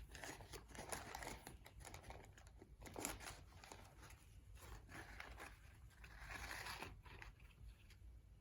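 Paper coffee filters rustling and crinkling as they are handled and threaded onto jute twine, in irregular rustles with the loudest crinkle about three seconds in.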